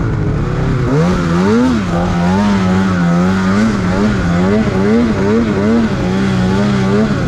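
Snowmobile engine running hard under throttle, its pitch wavering up and down about two to three times a second as the throttle is worked. It dips at the start and climbs again about a second in.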